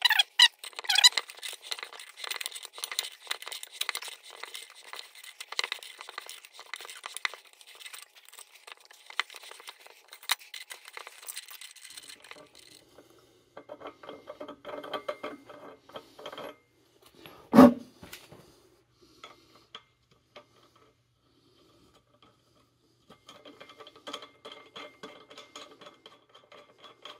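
A pipe-thread tap being turned by hand into a metal hole, cutting threads with a dense run of scraping, creaking clicks for about twelve seconds. Then quieter handling of metal tools, with one sharp knock a little past halfway and a patch of light rattling near the end.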